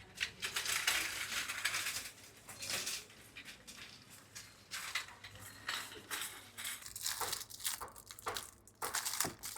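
Irregular rustling and crinkling of plastic packaging with light clinks and knocks as goods are handled, busiest in the first two seconds.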